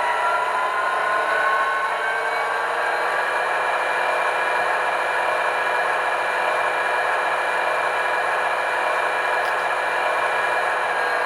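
Tsunami 2 sound decoder in an HO scale Athearn Genesis SD90MAC playing its diesel prime mover sound through the model's small speaker. It is a steady engine drone with a whine that rises slightly in pitch over the first couple of seconds, thin, with no deep bass. There is a faint click near the end.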